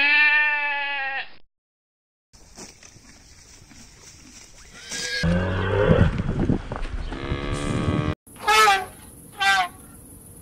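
Goat bleats from several spliced clips. First a long wavering bleat, then after a short silence a noisy stretch with calls, and three short bleats in a row near the end.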